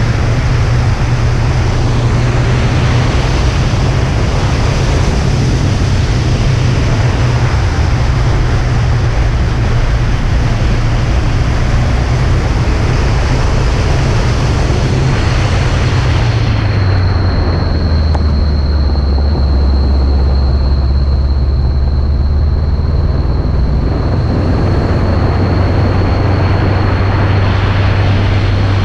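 Motorcycle engine running under way, with heavy wind noise on the microphone. About two-thirds of the way in the engine note drops and the wind eases as the bike slows, then the engine picks up again near the end.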